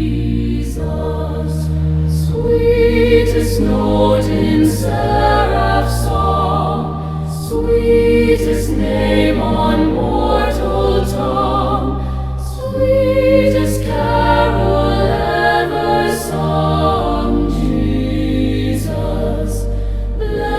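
Choir singing a slow hymn with held, wavering notes over sustained low bass chords that change every few seconds, with light, evenly spaced percussion ticks above.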